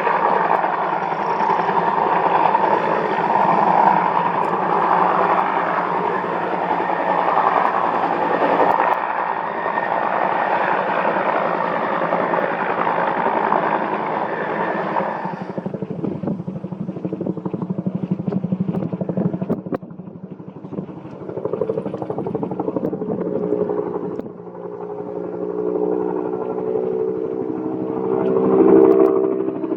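Bell UH-1N twin-engine military helicopter flying close by on approach: continuous rotor and turbine noise. The high hiss drops away abruptly about halfway through, and steady low humming tones come up near the end.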